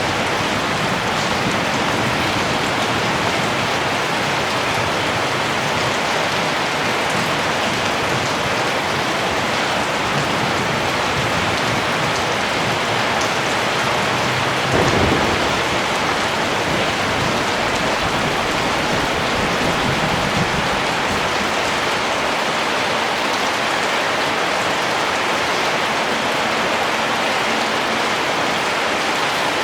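Steady, even rain falling, with a brief low thump about halfway through.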